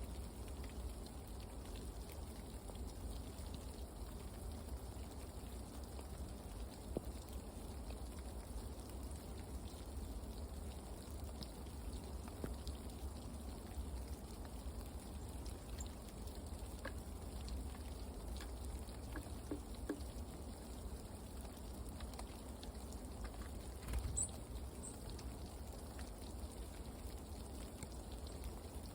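Steady patter of light rain, with scattered faint ticks and a brief high chirp near the end.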